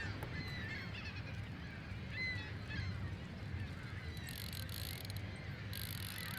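Birds calling in short, scattered gliding notes over a steady low rumble of wind and water. A brief hissing noise comes twice in the second half.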